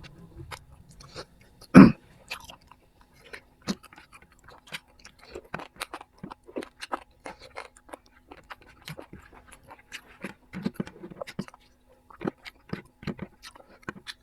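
Close-up chewing and crunching of food, with many irregular wet mouth clicks and crackles, and one much louder knock about two seconds in.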